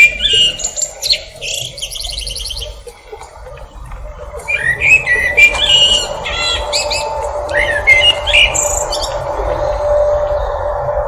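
Several birds chirping and calling: a fast high trill about two seconds in, then a dense run of chirps from about four to nine seconds. A steady low hum runs underneath.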